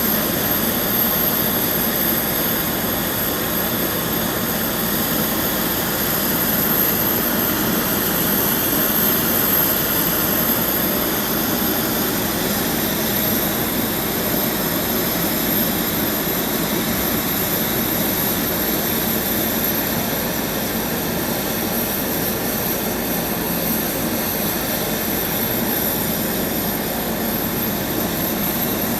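Passenger airliner's engine running steadily, a constant noise with a thin high whine on top that does not change.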